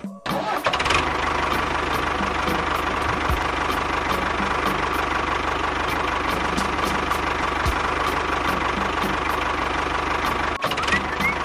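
A small engine running steadily, with a light tick about three times a second. The sound cuts out briefly just after the start and again near the end.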